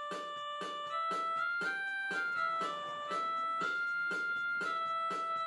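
A 61-key electronic keyboard playing a melody of held notes that step in pitch, over a steady beat of about four strikes a second. The repaired keyboard is sounding correctly.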